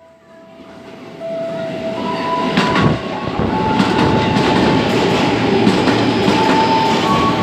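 Train running on the rails: the rumble builds over the first two seconds as it approaches, then holds steady. A few thin steady tones and scattered clicks sit on top.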